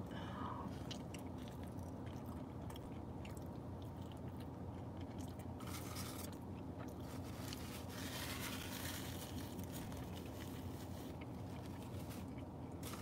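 Close chewing of a mouthful of breakfast burrito, with brief soft rustles about six and eight seconds in, over a low steady hum.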